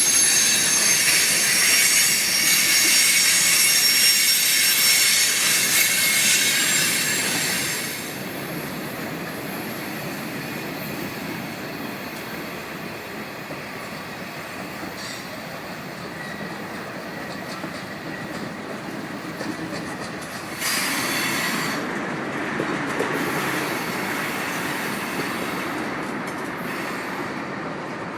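Freight train cars rolling past on steel wheels, the wheels squealing on the rail in several high steady tones for the first eight seconds or so. The squeal then stops, leaving a quieter steady rumble of wheels on track, with a brief louder high hiss about twenty seconds in.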